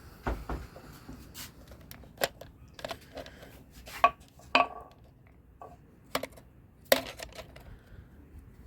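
Irregular knocks, clicks and light scrapes, about ten in all, from a phone being handled and propped up against a rock.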